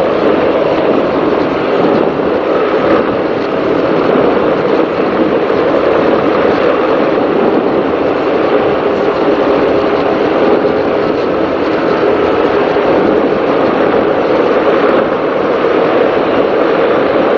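Race powerboat running at speed: a loud, steady drone of engines and rushing air and water, with no change in pitch.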